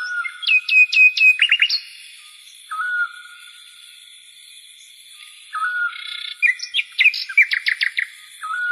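A songbird singing, repeating the same phrase about every three seconds: a short whistled note followed by a quick run of high notes that each slide downward. A steady high-pitched whine runs underneath.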